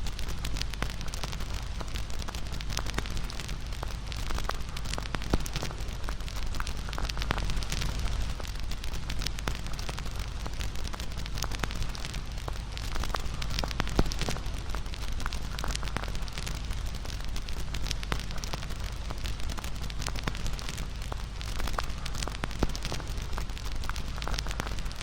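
Wood campfire burning, with a steady crackle full of sharp snaps and pops, the loudest pop about fourteen seconds in.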